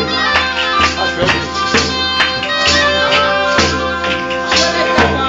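Southern Italian folk music from Cilento: a reed instrument plays a melody over a steady held drone, with tambourine strikes about twice a second.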